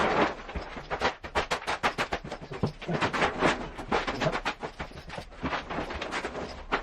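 Dense, irregular clicking and knocking from flooring materials being handled and set down on the floor.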